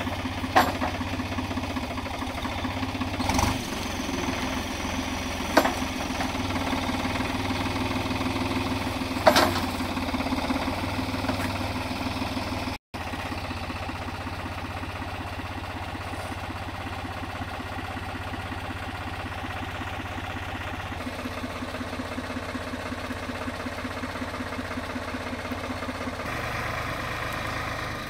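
An engine running steadily at idle, with a few sharp knocks in the first ten seconds.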